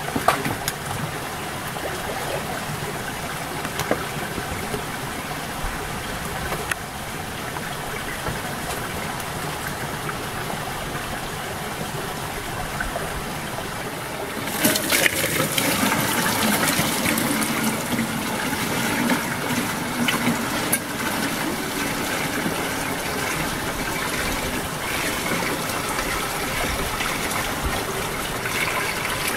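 Steady rushing of running water, becoming louder and brighter about halfway through.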